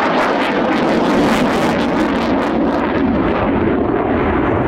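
RAF Eurofighter Typhoon's twin EJ200 jet engines in a loud, steady roar with a ragged crackle, the crackle strongest in the first three seconds.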